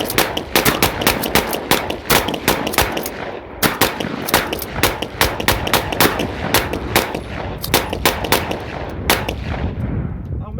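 Rapid gunfire: a long string of shots, about five a second, with a short break about three and a half seconds in and the shots thinning out near the end.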